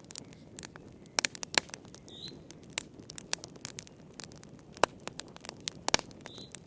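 Wood fire in a fireplace crackling: irregular sharp pops and snaps, a few much louder than the rest, over a low steady rush, with two short high chirps.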